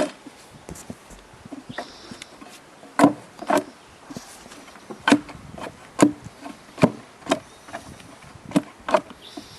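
Sharp, irregular knocks and clicks of a homemade metal hive tool prying and tapping at wooden beehive frames, about ten loud strikes.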